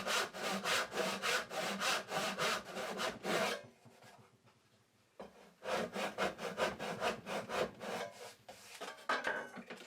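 Hand saw cutting across the end of a wooden box in quick back-and-forth strokes, sawing partway through the wall to cut the lid free. The sawing stops for about a second and a half around four seconds in, then starts again.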